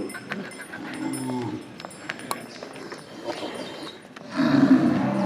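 Cattle mooing: a short, quieter moo about a second in, then a loud, long moo starting just after four seconds and still going at the end.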